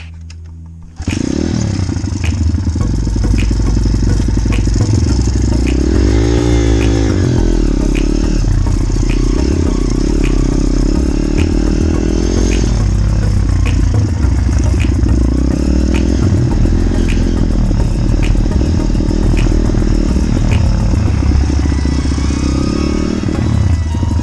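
Small dirt-bike engine running, its pitch rising and falling as the throttle changes, with heavy low rumble that may be wind on the microphone.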